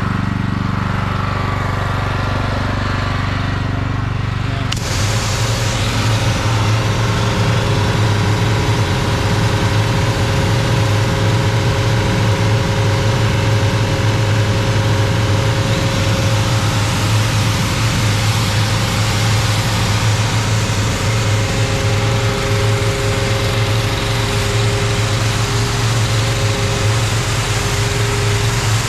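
Pressure washer engine running steadily. About five seconds in, a loud hiss starts suddenly and keeps going, consistent with the wand opening and water spraying through the steam tip.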